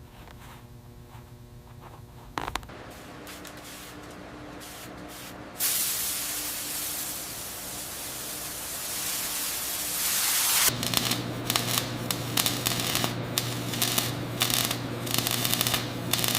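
Spray gun hissing steadily for about five seconds, starting about five and a half seconds in, then giving way to a steady machine hum with rapid clicking and clatter.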